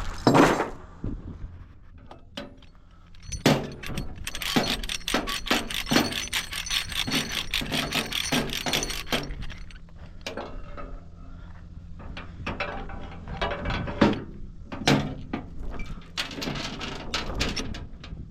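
A run of knocks and clatter, with a dense, fast rattle lasting several seconds about four seconds in, over a steady low hum.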